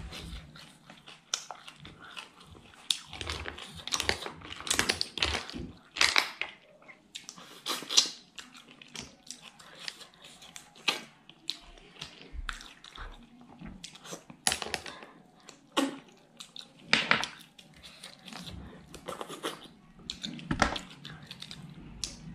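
A person chewing and smacking their lips while eating clam curry and rice by hand, a run of irregular wet clicks and smacks.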